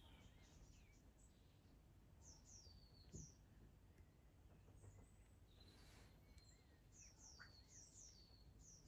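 Faint songbirds chirping: short, high notes that fall in pitch, coming in little runs of two or three, over a low background hush. A soft low knock about three seconds in.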